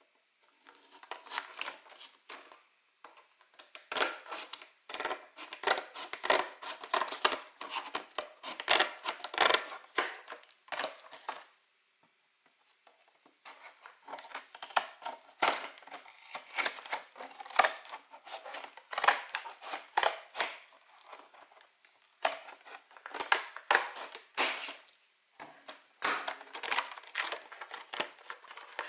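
Plastic packaging on a trading-card collection box being torn and crinkled by hand: dense crackling in bursts, with a brief pause about twelve seconds in.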